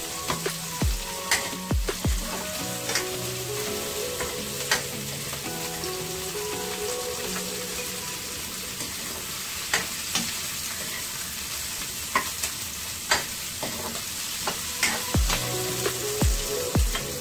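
Onion wedges sizzling as they sauté in a stainless frying pan, stirred with a metal spoon that clicks and scrapes against the pan now and then.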